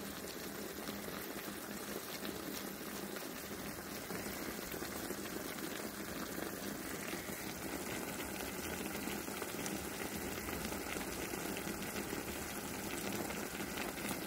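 Pork chops and sliced onions sizzling and bubbling steadily in melted beef tallow in a stainless steel fry pan, with a fine crackle throughout.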